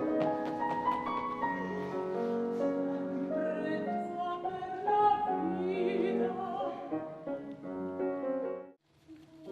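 Opera singing by several voices with piano accompaniment, held notes wavering in vibrato, stopping abruptly near the end.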